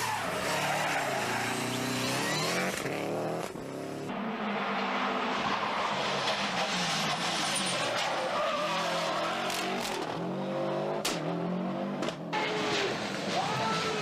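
Subaru Impreza GC8 rally car's turbocharged flat-four engine revving hard through the gears, its pitch climbing and dropping at each shift several times, over a steady rush of tyre and road noise. There is one sharp crack about three quarters of the way through.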